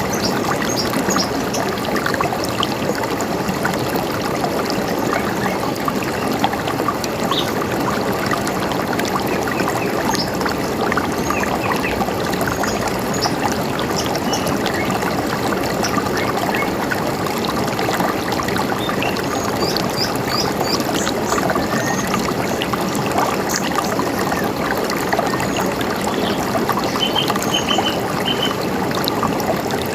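A river running steadily over stones, with scattered short, high bird chirps over it, including a quick run of chirps about twenty seconds in and another near the end.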